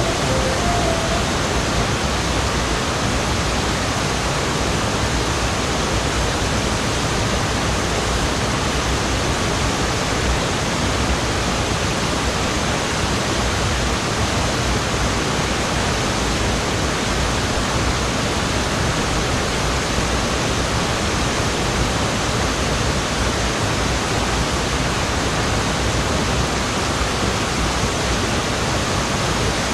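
Steady, even rush of water pouring down a waterfall.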